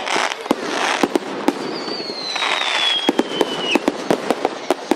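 Fireworks going off in a rapid series of bangs and crackles, with hissing bursts. In the middle a whistling firework glides steadily down in pitch for about two seconds, then cuts off.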